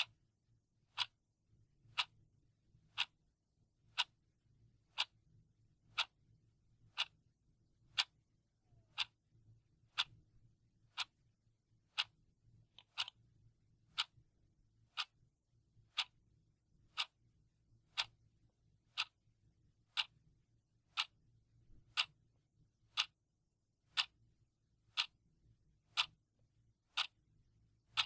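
Clock ticking steadily at one sharp tick per second, with a faint low hum beneath.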